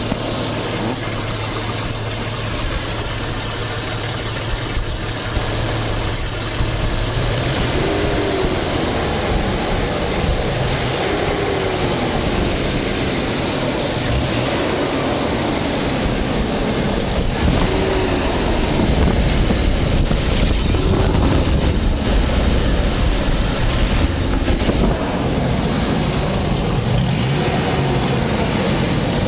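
Audi A6 C5 2.4 V6 (AGA) engine running, heard from outside the car: it idles steadily for about seven seconds, then is revved up and let fall back repeatedly, about every three seconds. It is making a noise that the owner takes for a fault.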